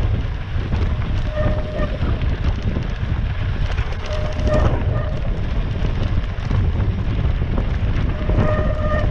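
Mountain bike riding over a rough, rocky trail, with wind buffeting the microphone and the bike rattling. Short steady squeals, typical of bicycle brakes being dragged, come three times: about one and a half seconds in, at about four seconds, and near the end.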